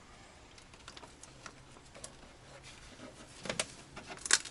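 Tiles being handled and pressed into place by hand: scattered light clicks and rustles, with a few sharper knocks near the end.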